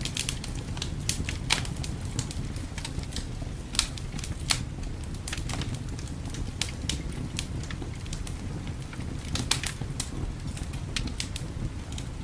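A wood fire in a fireplace crackling, with irregular sharp pops scattered over a steady low rumble.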